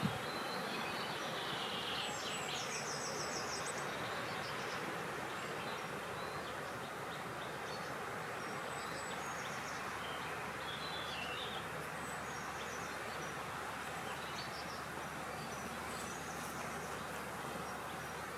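Steady rushing of wind, with faint bird chirps and short trills now and then above it.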